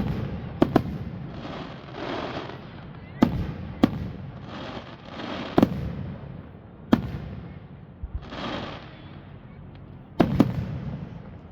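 Aerial fireworks going off: sharp bangs of bursting shells every one to three seconds, some in quick pairs, with swells of hissing crackle between them.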